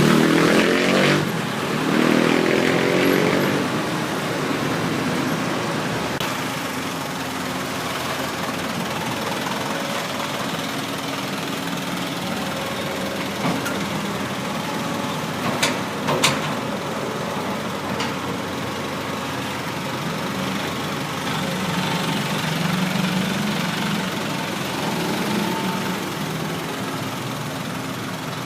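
Diesel engine running steadily at low revs. It is louder, with a shifting pitch, for the first few seconds, and a few sharp clicks come around the middle.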